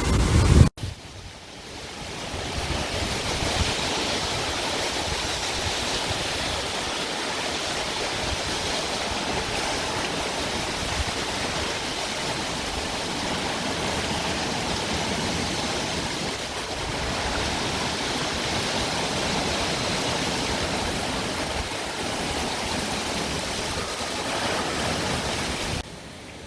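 Steady rushing hiss of tropical-storm rain and wind. It follows a loud low rumble that cuts off abruptly just under a second in.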